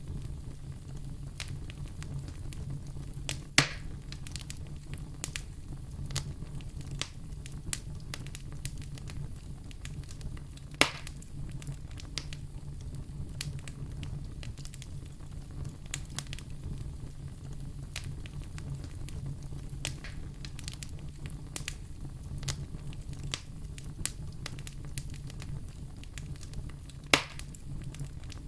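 Wood fire crackling in a fireplace: frequent small clicks over a steady low hum, with three louder pops spread through.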